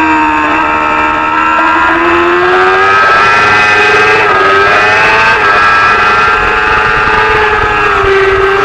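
Racing motorcycle engine held at high revs, its pitch sagging and climbing with the throttle: it dips in the first second, rises to a higher, held note from about three seconds in, and dips briefly again near the end.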